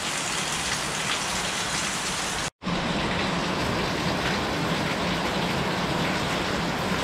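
Heavy rain pouring down in a steady hiss; the sound cuts out for an instant about two and a half seconds in, then carries on.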